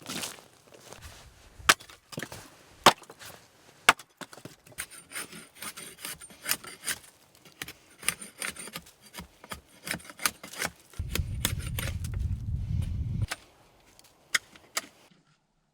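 Wood being handled: irregular sharp knocks and cracks of sticks and logs with some rubbing, and a dull low rumble for a couple of seconds near the end.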